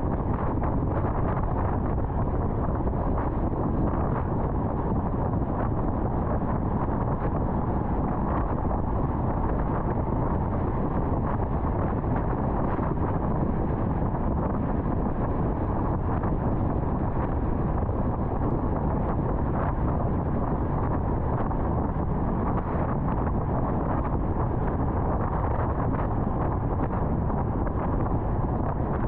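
Steady road noise of a car cruising on the interstate: tyre and wind noise running evenly throughout.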